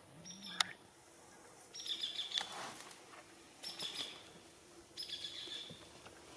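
A songbird singing short, repeated high phrases, one about every second and a half, with a single sharp click about half a second in.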